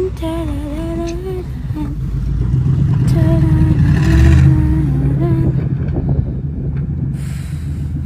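A steady low engine rumble, with a person humming in two short phrases over it.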